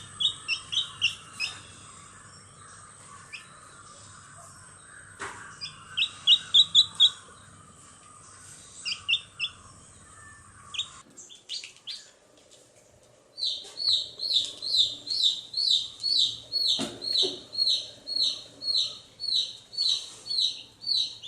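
Small birds chirping in short, quick groups of calls. About eleven seconds in the background changes, and a steady run of repeated downward-sliding chirps follows, about two a second.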